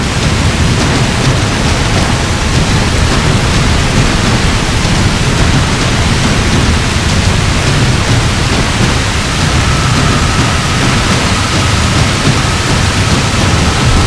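Heavy thunderstorm rain pouring steadily: a loud, even rush of noise with a deep rumble underneath.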